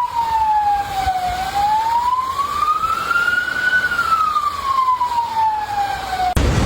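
Emergency vehicle siren in a slow wail, its pitch rising and falling steadily about every two and a half seconds. It cuts off abruptly near the end.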